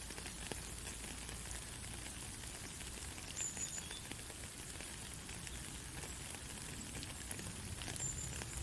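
Heavy rain falling steadily, an even hiss with scattered ticks of individual drops. Two brief high chirps stand out, one about three and a half seconds in and one near the end.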